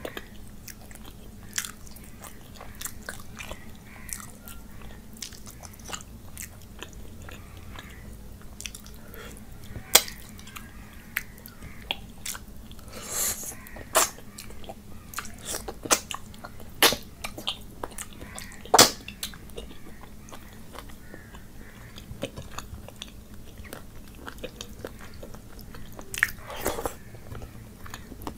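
Close-miked eating by hand: chewing rice and curry, with wet mouth clicks and smacks at irregular intervals, the loudest about ten and nineteen seconds in.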